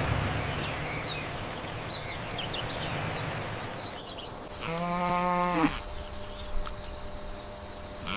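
A cow moos once, a single call about a second long, about halfway through, dropping in pitch at its end. Before it, small birds chirp over a low rumble that fades away at the start.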